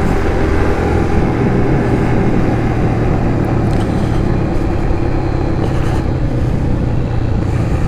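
Kawasaki KLX140's small air-cooled single-cylinder four-stroke engine running at a steady pitch while the bike is ridden along.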